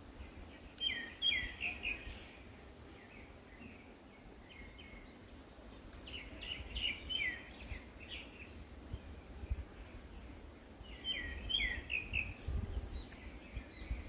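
A songbird singing three short phrases of quick chirping notes, about five seconds apart, over a low steady outdoor rumble.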